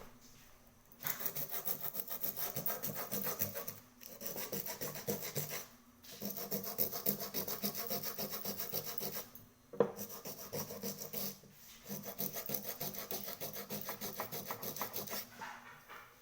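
Rapid back-and-forth abrasive rubbing strokes on a small cooking pot under repair, in runs of a few seconds with short pauses and a single sharp click about ten seconds in.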